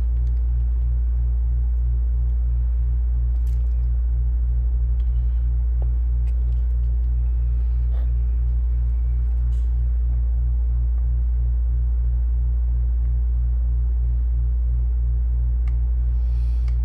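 A steady low electrical hum with an evenly pulsing buzz just above it, unchanging throughout, with a few faint small clicks from work at the bench.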